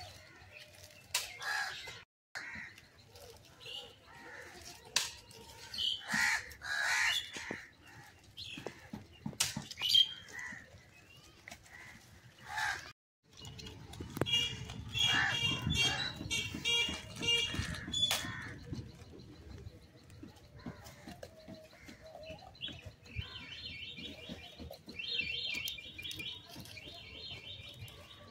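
Outdoor ambience of birds chirping in short repeated phrases, with scattered sharp clicks and rustles in between. The sound cuts out completely twice, for a moment each time.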